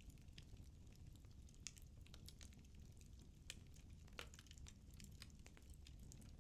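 Firewood burning in a fireplace: faint, sparse crackles and small pops over a low steady rumble of flame, with a few sharper pops scattered through.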